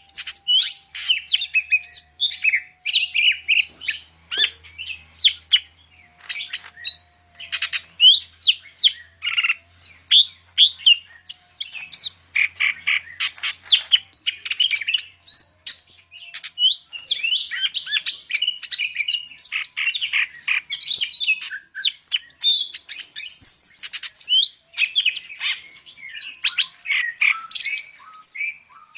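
Greater green leafbird (cucak ijo, Sumatran 'Medan' type) singing a fast, unbroken stream of varied chirps, whistles and short sliding notes, full of learned phrases.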